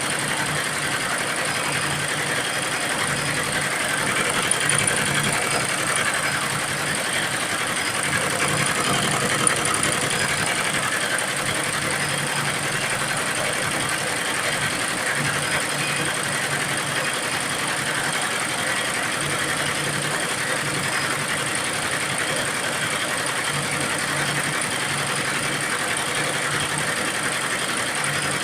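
Computerized embroidery machine running steadily, stitching.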